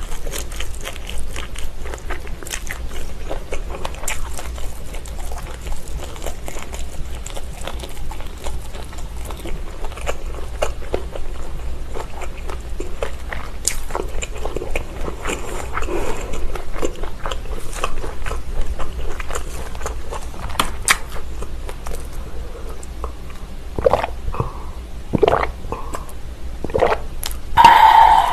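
Close-up chewing of Vienna sausages with snappy skins, full of wet mouth sounds and many small clicks and pops, with a brief louder mouth sound near the end.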